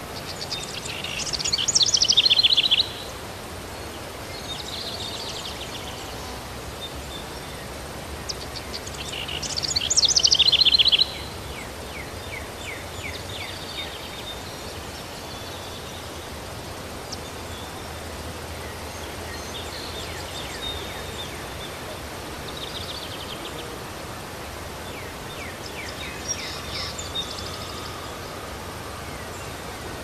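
A songbird singing a loud, falling phrase twice, about a second in and again about nine seconds in, with fainter chirps in between, over a steady hiss of background noise.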